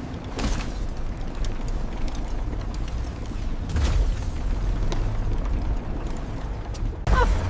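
A continuous deep rumble with heavy booms: one about half a second in, one near the middle and one near the end.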